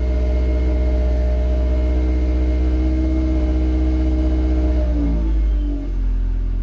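Supercharged Volkswagen Scirocco engine running just after a slow cold start, held at steady raised revs; about five seconds in the revs drop to a lower idle.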